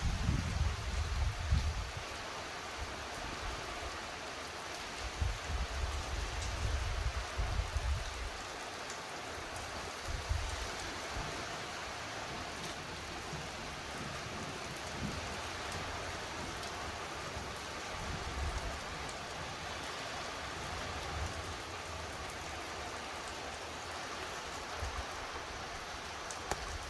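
Steady rain falling during a thunderstorm, a continuous even hiss. Gusts of wind rumble on the microphone now and then, strongest in the first couple of seconds and again around the middle.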